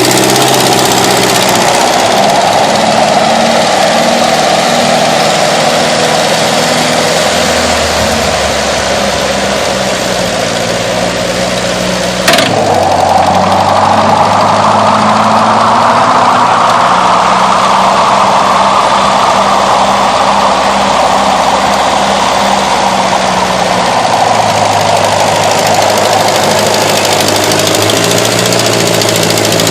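Tractor engine running loud, its speed shifting down and up several times, with a single sharp click about twelve seconds in.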